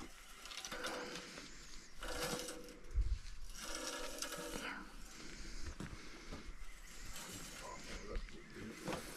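Irregular metallic clicks and rattling from hand adjustments on a band sawmill head, with one heavier thump about three seconds in.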